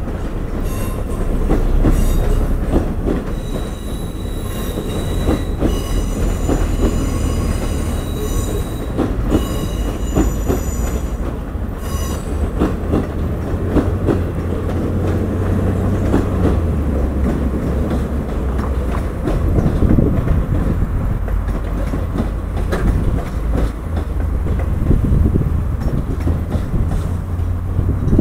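Passenger train rolling slowly into a station. Its wheels squeal in thin high tones for roughly the first twelve seconds over a heavy, steady rumble, and after that the rumble continues with a run of clicks from the wheels over the rail joints.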